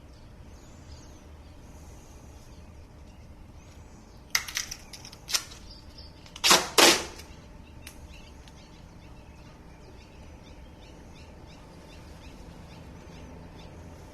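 Tape pulled off the roll and torn, in short bursts: a few about four to five seconds in, then two louder ones about a second and a half later.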